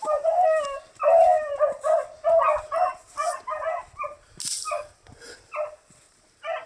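A dog whining and yipping in a rapid string of short, high cries, about two a second, loudest in the first couple of seconds and growing shorter and fainter toward the end.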